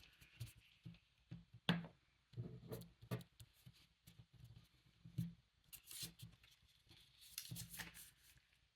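Paper-crafting handling sounds: paper rustling, with scattered light taps and clicks of tools and paper on a work surface.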